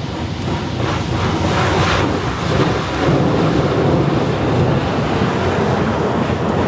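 Automatic car wash's rotating washer spraying over the car, a steady rushing noise heard from inside the cabin, growing louder about a second in.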